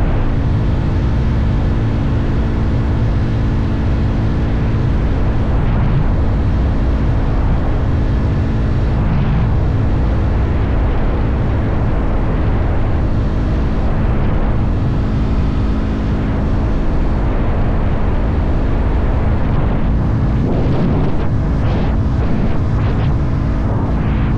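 Motorcycle engine running at a steady cruising speed.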